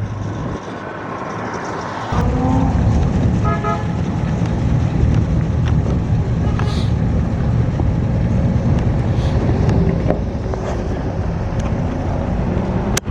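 A car engine running close by; its low rumble starts abruptly about two seconds in and then holds steady.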